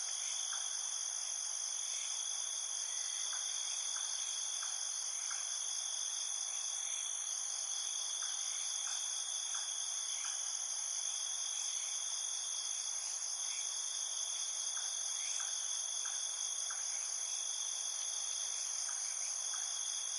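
Steady chorus of insects trilling, a constant high-pitched layered buzz, with faint soft ticks scattered through it.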